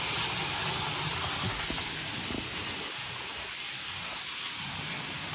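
Model train running along its track: a steady rolling noise with a faint low motor hum, easing slightly after a couple of seconds.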